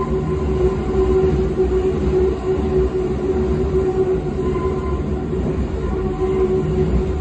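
Berlin U-Bahn train running, heard from inside the car: a steady low rumble of wheels on track under a steady mid-pitched motor hum.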